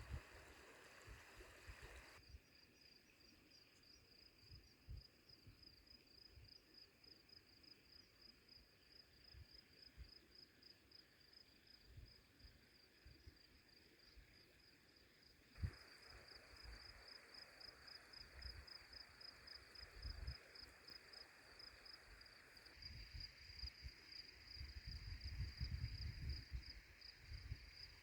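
Insects trilling in one high, even, continuous pulsing trill, faint, with scattered low thumps of wind or handling on the microphone.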